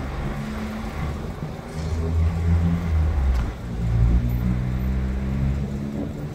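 Road traffic at an intersection: car engines running close by and pulling away, their pitch rising as they accelerate from about four seconds in.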